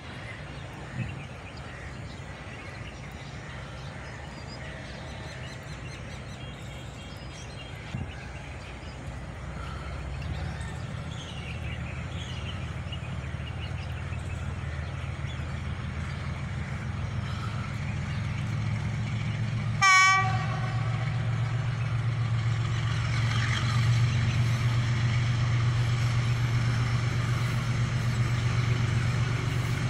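Diesel locomotive engine running and throttling up, its low drone growing steadily louder, with one short horn blast about two-thirds of the way through.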